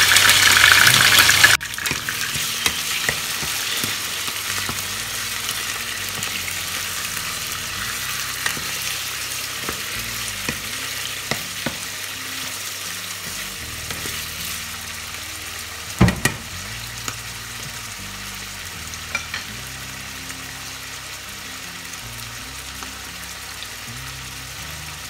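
Chicken pieces and garlic sizzling in oil in a frying pan over high heat, with a wooden spoon knocking and scraping against the pan now and then, loudest about 16 seconds in. The sizzle is loud for the first second and a half, then drops suddenly and carries on more softly.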